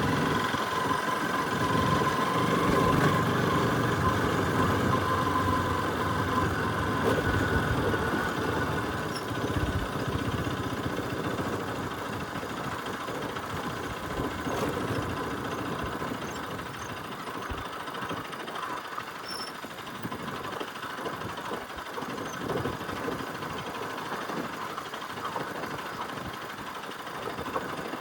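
Bajaj Pulsar RS200's single-cylinder engine running on a dirt trail ride, louder for the first several seconds, then easing off and running quieter.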